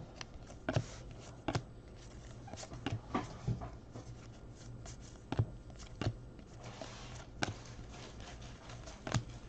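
2019 Panini Donruss baseball trading cards being handled and flipped through by hand: scattered light clicks and snaps, roughly one a second, over a faint steady room hum.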